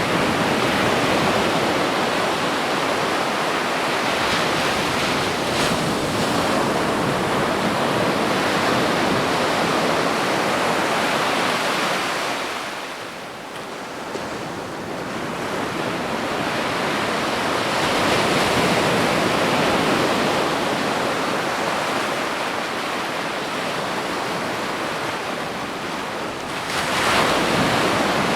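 Ocean waves breaking and washing onto a beach in a steady roar of surf. It eases into a lull about halfway through, builds again, and a wave crashes louder near the end.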